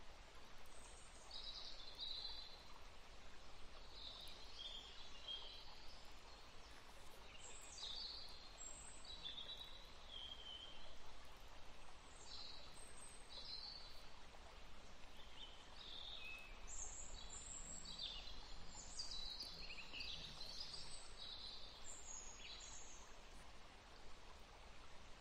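Faint birdsong: scattered short, high chirps over a steady background hiss, busiest in the second half.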